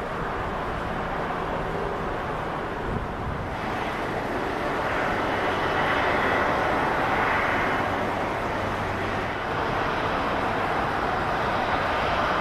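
Jet airliner engine noise: a steady rush that swells a few seconds in and then holds.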